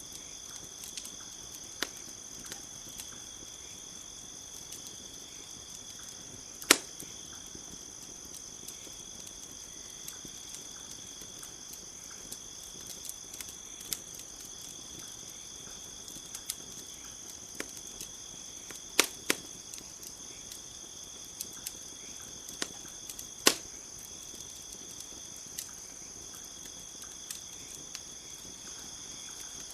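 Campfire crackling, with scattered sharp pops and a few louder snaps, over a steady high chirring of crickets.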